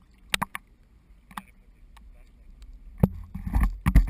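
Scattered clicks and knocks, then a sharp knock about three seconds in followed by heavy low thumps: gear and the camera being handled aboard a small fishing boat.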